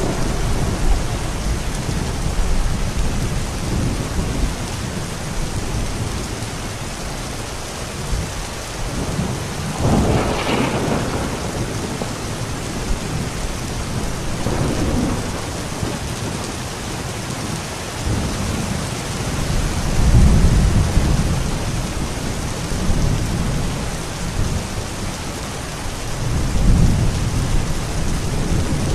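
Steady rain with rolling thunder that swells up several times, deep low rumbles with one sharper, brighter peal about ten seconds in.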